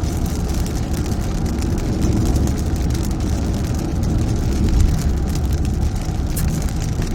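A car driving in heavy rain, heard from inside the cabin: a steady low road and engine rumble with raindrops pattering on the body.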